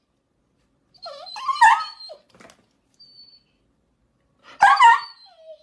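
A pet animal giving two loud, wavering pitched calls, the first about a second in and the second near the end.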